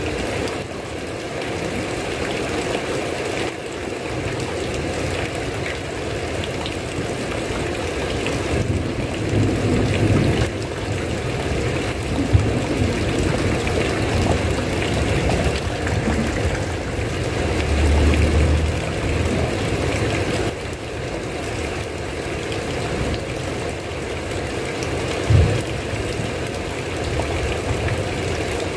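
Steady rain noise. A low rumble comes about ten seconds in and again about eighteen seconds in, and there is one short sharp knock near the end.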